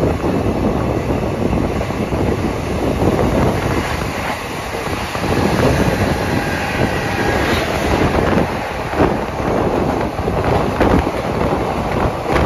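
Passenger train coach running along the track, a steady rumble of wheels on rail with irregular clacks over rail joints. Wind buffets the microphone.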